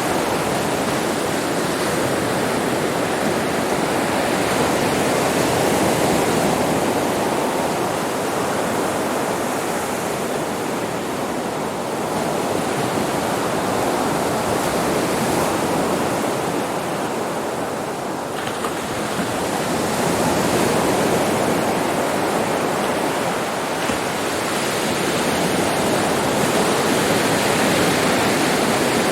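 Sea waves breaking and washing up on a beach: a continuous rushing surf that swells and eases slowly every few seconds.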